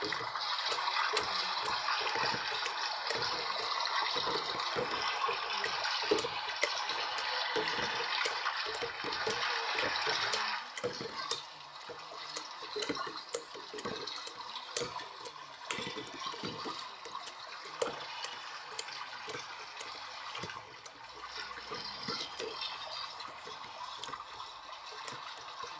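LG washing machine filling its drum with water for the rinse cycle: a steady rush of inflowing water that cuts off suddenly about ten seconds in, as the inlet valve closes. After that, quieter sloshing and light clicks from the drum.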